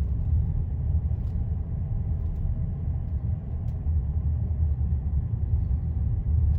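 Steady low rumble of a car heard from inside the cabin: engine and road noise, with a few faint ticks.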